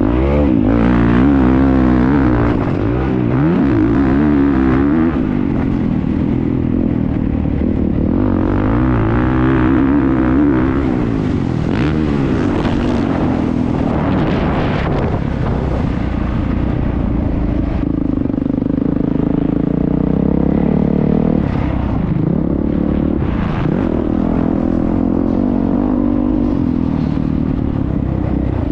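Motocross bike engine recorded on board, revving hard throughout, its pitch climbing and dropping over and over as the rider accelerates, shifts and backs off around the track.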